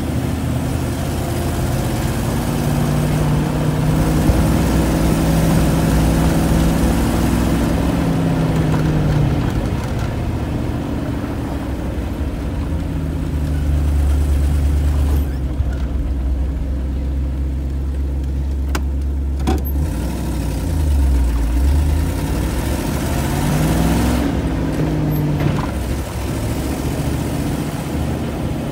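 1990 Land Rover Defender 110's engine heard from inside the cab while driving, its pitch rising and dropping several times as it pulls and changes gear through the manual gearbox, with a steadier low hum through the middle. A few sharp clicks sound about two-thirds of the way in.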